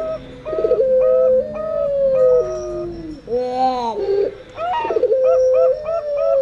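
Puter pelung doves and perkutut (zebra doves) cooing together. Long drawn-out, howl-like puter coos step down in pitch, while the perkutut's quick runs of short notes overlap them. The calls repeat about every five seconds.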